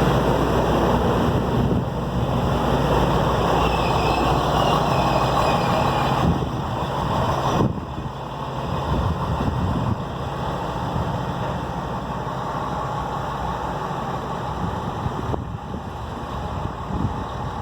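Light rail train running past on the track, a steady engine hum with rail noise over it; the noise drops suddenly about eight seconds in and carries on more quietly.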